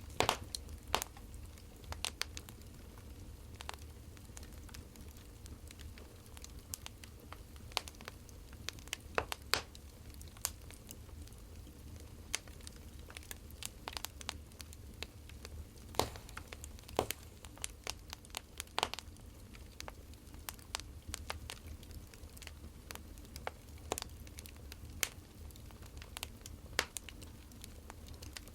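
Wood fire crackling: irregular snaps and pops over a low steady rumble.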